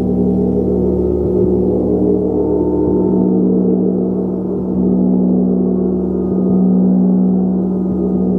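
A gong is played steadily, struck softly about every second and a half. Its overlapping tones build into a dense, sustained hum that slowly swells and ebbs.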